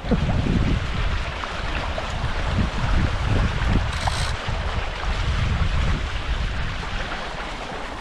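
Wind buffeting the microphone over water rushing past the hulls of a Hobie 16 catamaran under sail, an uneven noise that rises and falls with the gusts.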